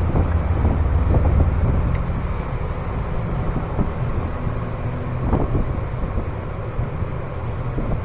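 Small clicks and rustles of hands working an ignition coil connector in the engine bay, over a low steady rumble that eases after about two seconds.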